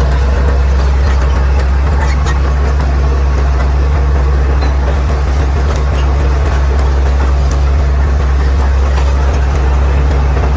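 Caterpillar D6R XL bulldozer's diesel engine running at a steady low drone, with a few faint clicks over it.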